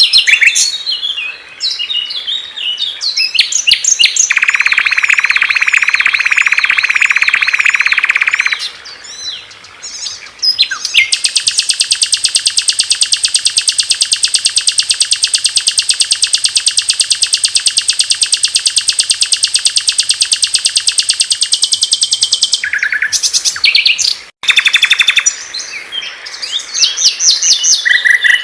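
Small songbirds singing loud, clear songs: varied high chirps and whistles, a buzzy phrase lasting about four seconds, then one long, very fast, high trill of about ten seconds. After a sudden break a few seconds before the end, the chirping starts again.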